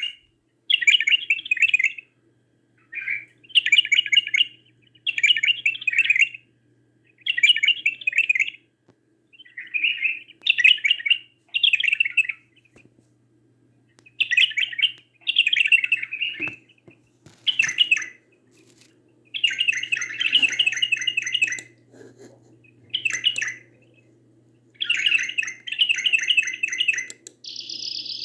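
Bulbul and canary song: short, chattering, warbled phrases about a second long, repeated every second or two with short pauses between them. A steady high electronic tone comes in just before the end.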